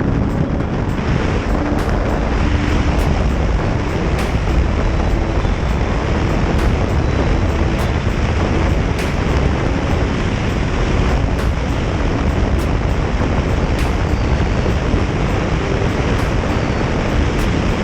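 Motorcycle riding at speed: a steady rush of wind on the microphone over the low drone of the engine.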